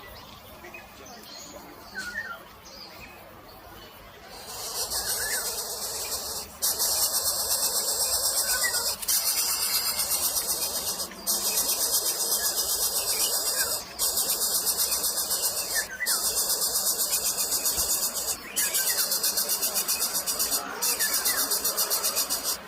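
A loud, shrill insect buzz sets in about four seconds in. It pulses rapidly and breaks off briefly every couple of seconds. Faint short bird chirps sound under it.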